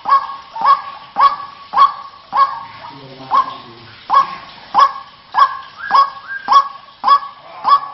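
White-breasted waterhen (ruak-ruak) calling, a short note repeated steadily nearly twice a second; a recording of a female calling to males, played as a lure.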